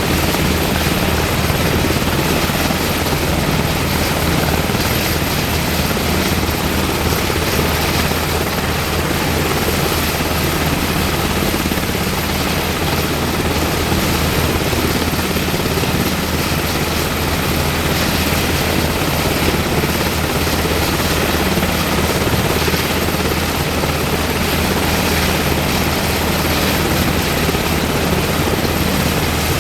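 UH-60M Black Hawk helicopter running steadily, its twin turboshaft engines and rotor giving a constant low drone with a thin high whine over it.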